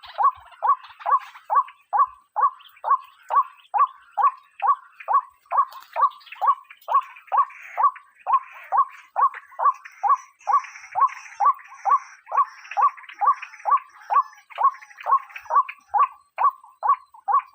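White-breasted waterhen (ruak-ruak) calling: a steady, even series of short "kwak" notes, a little over two a second, each falling sharply in pitch. It is a lure call used to draw waterhens into traps.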